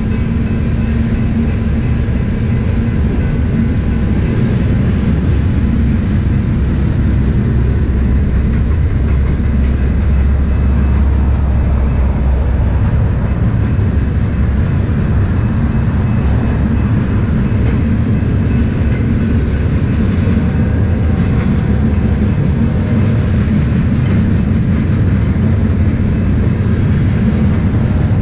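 Freight train of tank cars rolling past: a steady, loud rumble of steel wheels on the rails, with some clickety-clack.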